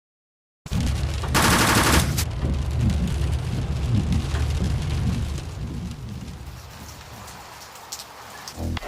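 Rain falling with rolling thunder, with a loud sharp crackle of thunder about a second and a half in. The rumble slowly dies away toward the end.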